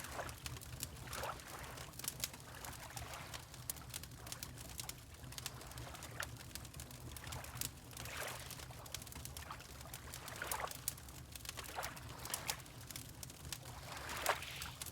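Fireplace crackling with many small sharp pops, over water lapping in soft swishes every second or two and a steady low rumble.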